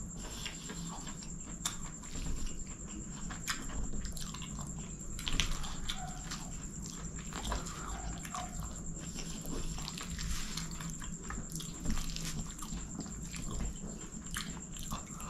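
Close-miked eating of chicken kottu by hand: chewing, lip smacks and irregular wet clicks as fingers gather food and mouthfuls are bitten. A faint steady high-pitched whine sits underneath.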